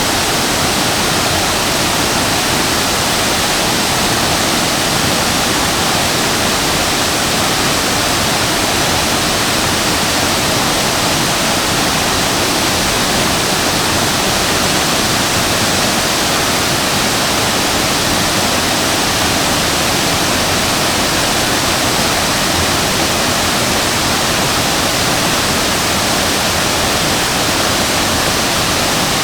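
Shasui Falls waterfall pouring steadily: a loud, unbroken rush of falling water with no let-up or change.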